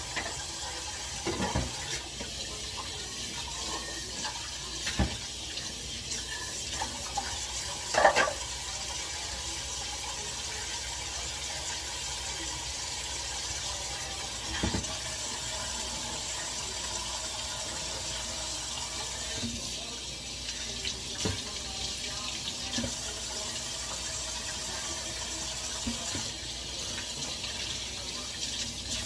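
Water running steadily from a tap into a sink, with a few short clinks, the loudest about eight seconds in.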